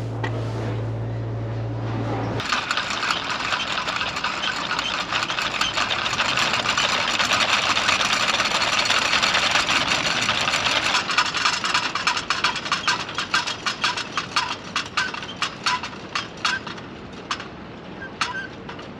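A steady low hum stops sharply about two seconds in. A train then passes on the rails: a rushing noise that builds and then fades, with wheels clicking over the rail joints, the clicks spacing out and dying away near the end.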